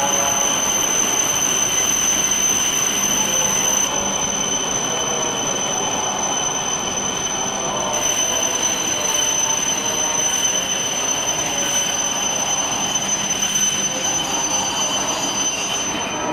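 Shinkansen train running along a station platform: a steady rushing rumble of wheels and cars with a thin high whine over it.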